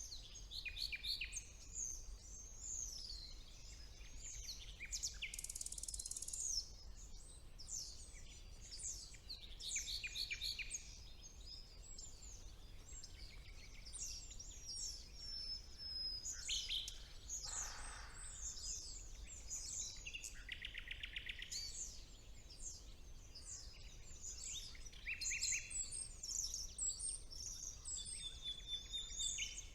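Chorus of several songbirds in a spring woodland, singing over one another throughout with many quick chirps, trills and sliding high notes, and a brief buzzy, lower call a little past halfway.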